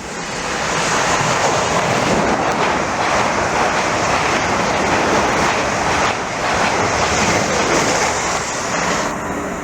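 A train passing at speed: a loud, steady rushing noise that swells in over the first second and falls away near the end.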